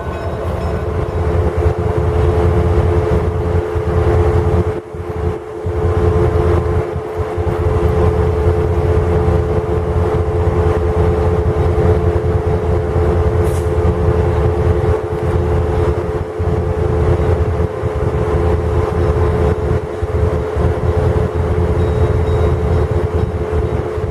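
GE 44-ton diesel switcher running light, its engines making a steady low rumble with a held hum, and a short dip in loudness about five seconds in.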